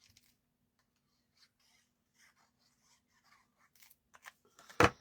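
Light rustling and small clicks of card stock being handled on a craft table, with one sharp tap near the end.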